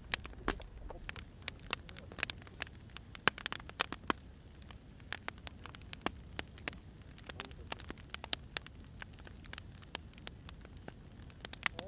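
Wood fire burning, crackling with irregular sharp pops and snaps, some close together and some spaced out, over a low steady rumble.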